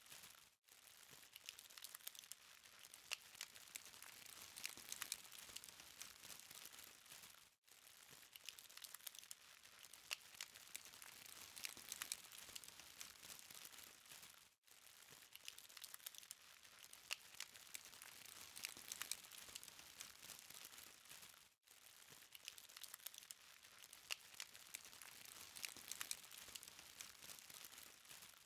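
Charcoal fire crackling softly, a steady hiss of small pops and ticks, with a brief dropout about every seven seconds.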